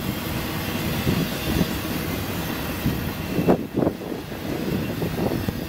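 Double-stack intermodal freight cars rolling past on the rails: a steady noise of steel wheels on track, with a couple of sharper knocks about three and a half seconds in.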